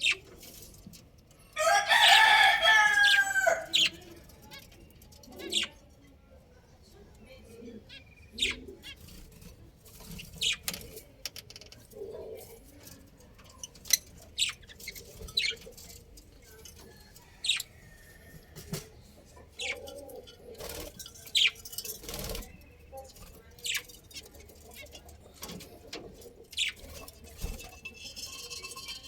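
A rooster crows once near the start, a loud call lasting about two seconds. After it come scattered short, sharp bird chirps and clicks.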